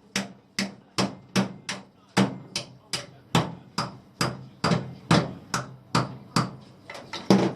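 A steady series of sharp knocks, about two and a half a second, some eighteen in all.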